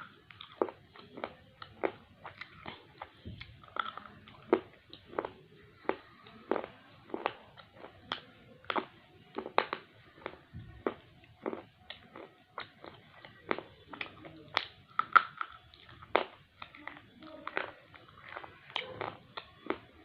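Slate pencil being bitten and chewed: a long run of sharp, dry crunches, about one or two a second, at an irregular pace.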